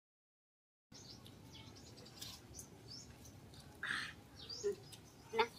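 Birds chirping faintly, in short high calls scattered every so often, with one louder short sound about four seconds in. The sound cuts in after about a second of dead silence.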